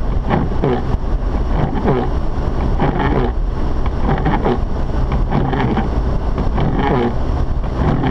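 Mazda RX-8 driving through snow, heard from inside the cabin: the steady low rumble of its rotary engine and tyres, with a faint pattern repeating roughly once a second.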